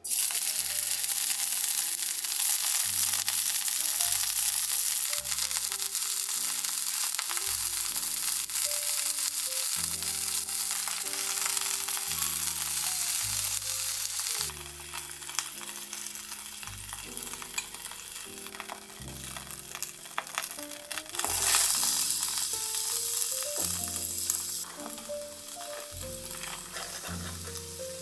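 Scallops searing in hot oil in a frying pan, sizzling steadily, with chopped onion and celery frying in the same pan near the end. The sizzle is loudest in the first half, dips about halfway, and flares up again for a few seconds past the three-quarter mark. Soft background music plays underneath.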